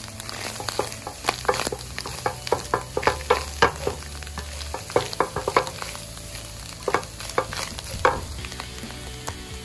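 Wooden spatula stirring and tossing fried mussels in a hot metal pan, with a steady sizzle of oil under frequent short scrapes and clacks against the pan.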